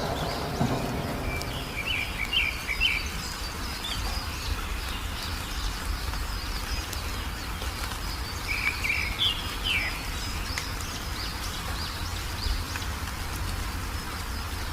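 A songbird gives two short bursts of rapid chirps, a few seconds in and again about halfway through, with fainter high chirping throughout. Underneath is a steady low background of outdoor noise, and a thunder rumble dies away at the start.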